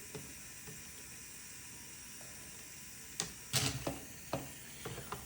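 Plastic Lego pieces being handled and pulled off a build: a quiet start, then a quick run of small clicks and rattles about three seconds in.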